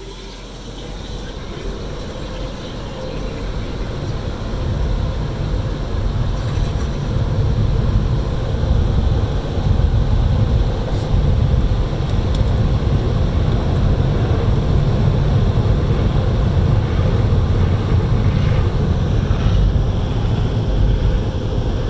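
Automatic car wash equipment working over the car, heard from inside the cabin: a heavy, steady rush and rumble that builds over the first several seconds and then holds loud.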